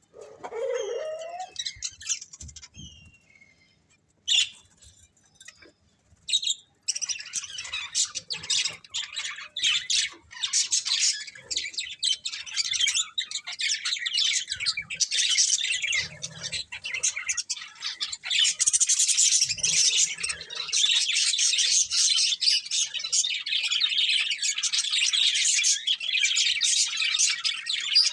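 Pet budgerigars calling: a lower gliding call at the very start and a few single chirps, then from about seven seconds in a steady, dense chattering warble.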